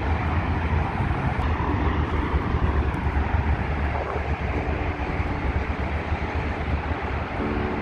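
Wind buffeting the microphone outdoors: a steady, uneven low rumble with a faint hum at times.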